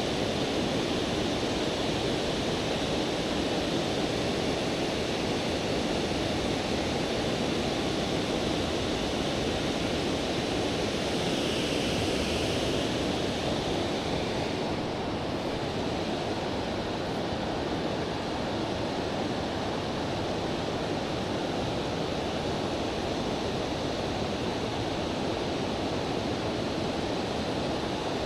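Steady rushing of river current, an even hiss with no breaks, a little softer from about halfway through.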